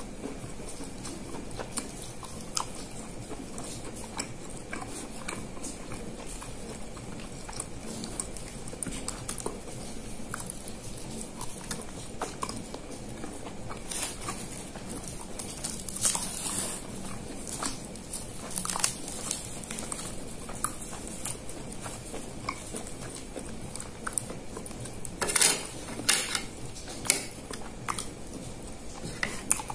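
Close-up chewing of chicken satay in peanut sauce: soft, wet mouth clicks and smacks. A few louder, sharper bites come near the end.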